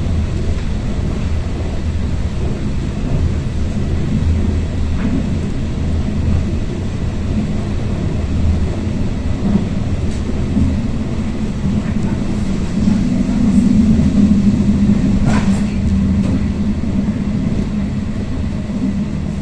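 Regional passenger train running at speed, heard from inside the carriage: a steady low rumble with a hum that swells a little past the middle, and a few short clicks.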